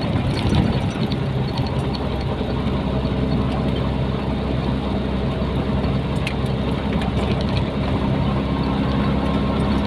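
Nissan Diesel container truck's diesel engine running steadily with road noise, heard from inside the cab.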